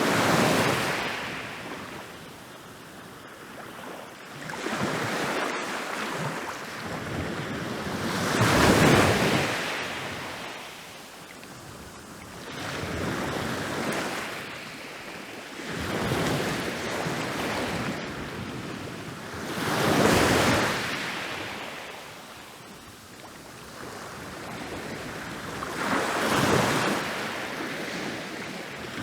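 Ocean waves breaking on a beach, each wave swelling into a rushing crash and washing back out, with a new surge every few seconds.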